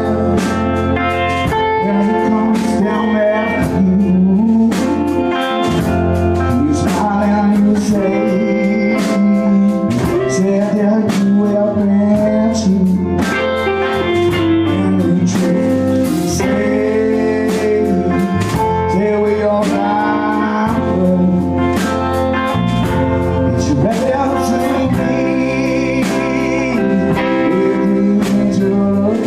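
Live blues-rock band playing with electric guitar, bass and drums, a steady beat of drum hits under gliding guitar lines.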